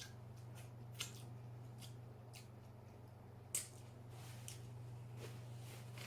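Quiet eating at close range: scattered soft clicks and wet mouth noises of chewing seafood, the loudest about a second in and again past the three-and-a-half-second mark, over a steady low electrical hum.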